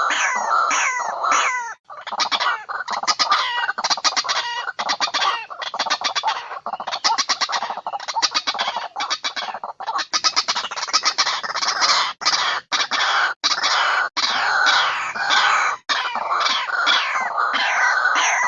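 White-breasted waterhen (ruwak-ruwak) calling continuously, as played for a bird lure: long trains of rapid clucking notes with brief breaks. Repeated downward-sliding calls come at the start and again near the end.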